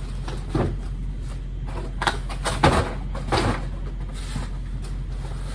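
Cardboard cases being handled and stacked onto a loaded dolly: four dull knocks and scuffs, over a steady low hum.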